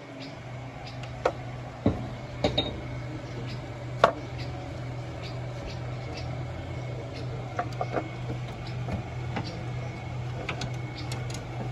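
Toyota Corolla GLI engine idling with a steady low hum, with scattered metallic clinks and knocks of tools and parts being handled, the sharpest about four seconds in.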